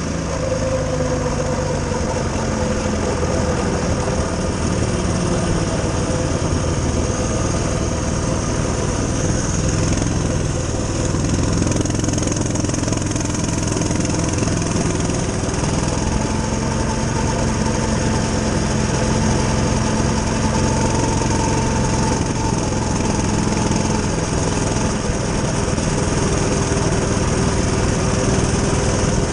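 Coleman CT200U-EXR mini bike's small single-cylinder four-stroke engine running steadily while the bike is ridden, its pitch drifting gently up and down as the throttle changes.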